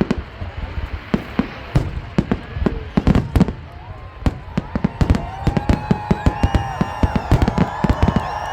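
Fireworks going off: a rapid series of sharp bangs and pops that grows denser in the second half.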